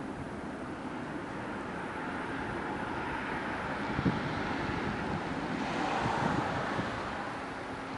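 A CC-130 Hercules' turboprop engines running, a steady rushing drone that swells about six seconds in and then eases, with wind noise on the microphone. A single short thump about four seconds in.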